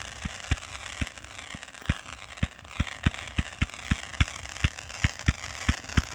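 Fireworks display: a quick, irregular run of bangs, about three or four a second, over a steady crackling hiss.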